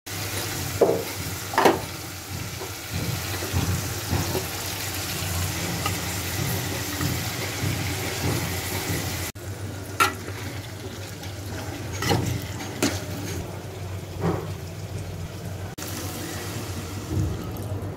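Green beans frying in oil and spice paste in a metal pot, with a steady sizzle. A metal spatula stirs and scrapes through them, clinking sharply against the pot a few times, most loudly near the start and around the middle.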